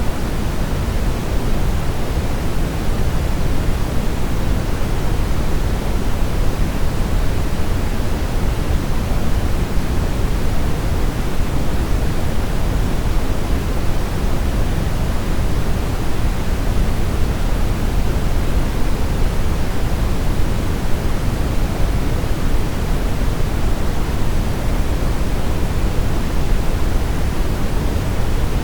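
Steady brown noise: an even, deep rushing hiss strongest in the bass and falling away toward the treble, with no changes.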